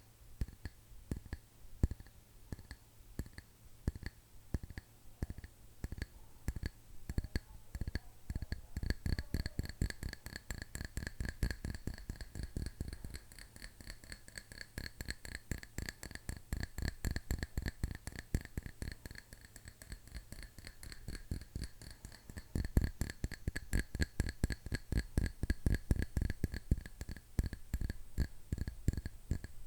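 Fingernails tapping fast and continuously on a hard object. About nine seconds in, the taps begin to ring with a steady pitch, as if a resonant object is being tapped.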